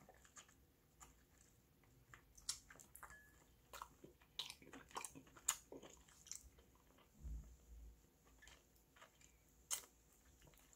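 Faint chewing and soft mouth clicks of someone eating soondae (Korean blood sausage), with scattered light clicks. There is a soft low bump about seven seconds in.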